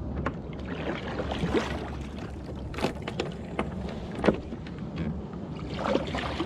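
Kayak on the water: water sloshing and dripping around the hull with a scatter of short knocks, over a steady low rumble of wind.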